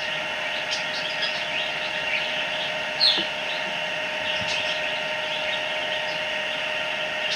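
A steady hum made of several constant tones, with a few short falling chirps over it; the clearest chirp comes about three seconds in.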